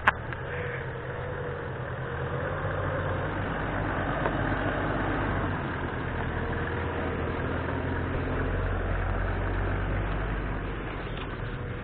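A 4x4's engine running at crawling speed, a steady low hum that grows a little louder as the vehicle comes alongside about halfway through. A single sharp click at the very start.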